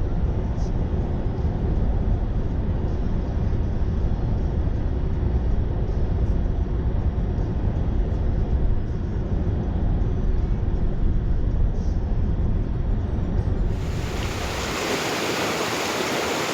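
A steady low rumble of noise that, about fourteen seconds in, gives way to the even, bright rush of a mountain stream's flowing water.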